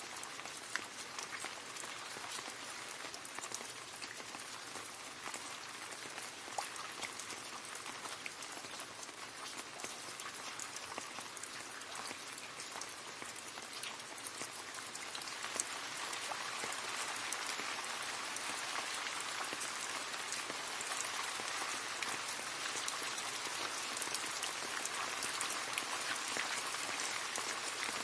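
Steady rain pattering and splashing into a puddle, dense small drop impacts, growing a little heavier about halfway through.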